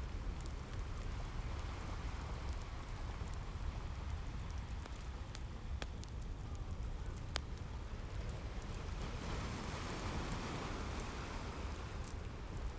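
Ocean waves washing in with a steady low rumble, the surf swelling again in the later part, mixed with scattered sharp crackles of a wood fire.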